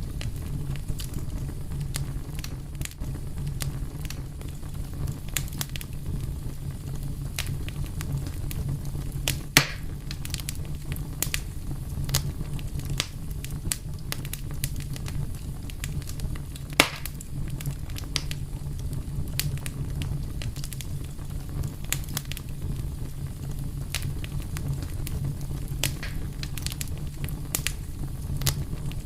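Wood fire burning with a steady low rumble and frequent irregular crackles, two louder pops about a third and just over halfway through.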